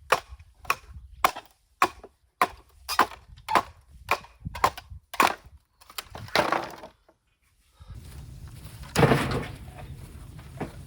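Bamboo being split with a blade: about ten sharp chopping strikes, roughly two a second, then a longer splitting crack about six seconds in. After a short gap a steady low hum sets in, with one loud crackling clatter of bamboo near nine seconds.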